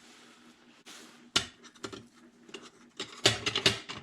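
Metal hand tools clinking and clattering as they are handled: one sharp clack about a second and a half in, then a quick run of clinks near the end.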